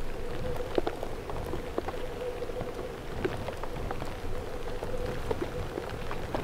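Precipitation striking a hard surface: irregular sharp ticks of drops or pellets, several a second, over a steady hiss and a faint steady hum.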